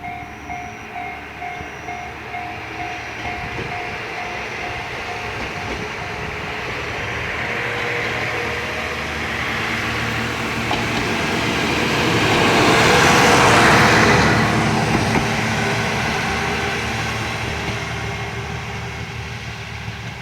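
Level-crossing alarm bell ringing about twice a second while an MRT300 diesel railcar approaches. The railcar's engine and wheel noise builds to a peak as it passes, about 13 seconds in, then fades as it moves away. The bell is drowned out as the train nears.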